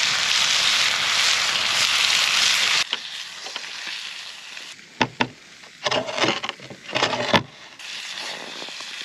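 Grayling frying in a red-hot pan, sizzling loudly and stopping abruptly about three seconds in. After that come a couple of sharp knocks and a short run of clattering.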